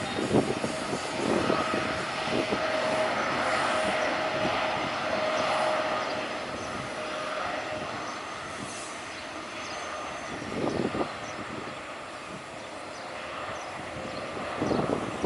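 Jet airliner's engines running as it moves past the runway: a steady noise with a high whine, swelling to its loudest about four to five seconds in, then fading.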